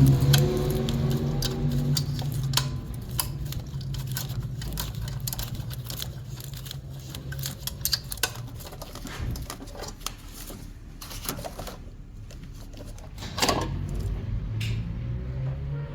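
Irregular metallic clicks and clinks of hand tools and engine parts being handled, over a low hum that fades in the first few seconds, with one louder knock near the end.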